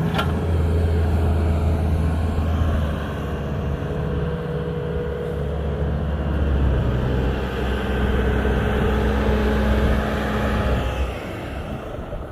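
Truck engine running steadily, a low hum whose pitch shifts slightly and fades off about eleven seconds in.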